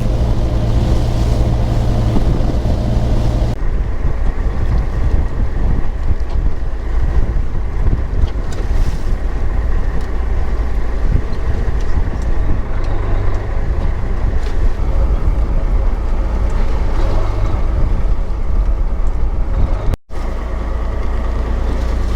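A fishing boat's engine running steadily underway, a continuous low rumble with wind buffeting the microphone. The sound drops out for an instant near the end.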